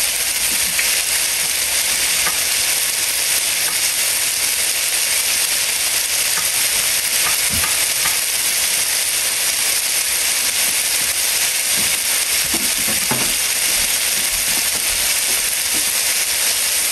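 Food frying in a hot pan: a steady sizzle, with a few faint clicks.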